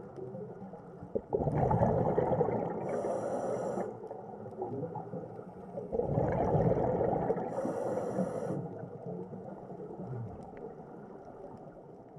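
An animal's rough, noisy call, heard twice, each about two and a half seconds long with a quieter stretch between them and a thin high buzz near the end of each.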